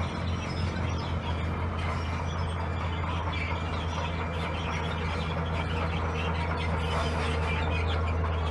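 Heavy earthmoving machine's diesel engine running steadily, with a constant low hum under a rougher rattling noise.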